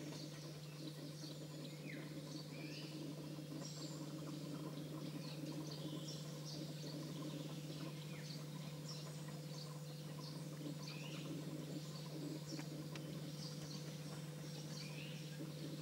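Faint birdsong of small birds: many short, high chirps scattered throughout, over a steady low hum.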